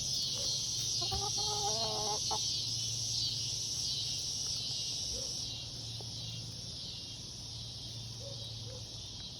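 Domestic hen calling: one drawn-out, wavering call about a second in, then a few short, faint clucks. Steady high insect chirring runs underneath.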